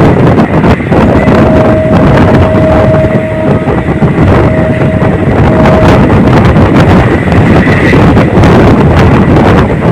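Passenger train running at speed, a loud steady rumble buffeted by wind on the microphone. A steady single tone starts about a second in and holds for about five seconds.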